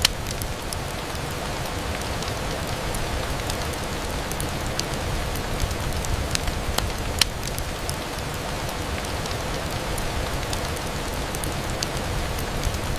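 Steady rain falling on a window, with scattered sharp clicks throughout; one click about seven seconds in is louder than the rest.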